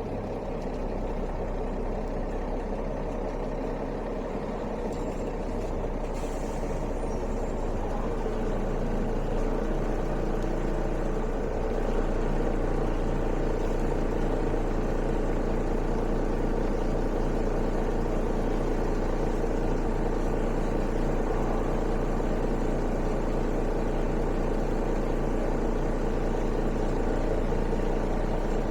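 Mercedes-Benz O405 city bus's diesel engine running, heard from inside the bus. The engine note shifts about eight to twelve seconds in and grows louder from about twelve seconds.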